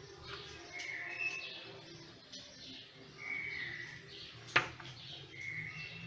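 A bird calling in the background: three short whistled notes about two seconds apart. A single sharp click comes about four and a half seconds in.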